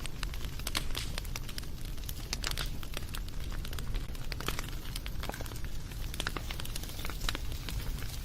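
Wood fire crackling and popping: irregular sharp snaps scattered over a steady low rumble of the flames.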